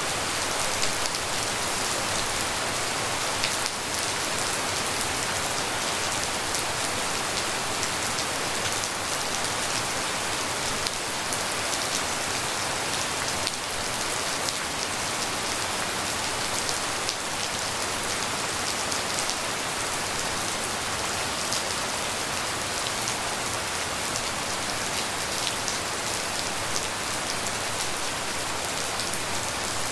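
Steady tropical rain falling, a dense even hiss of drops with many small individual drop impacts.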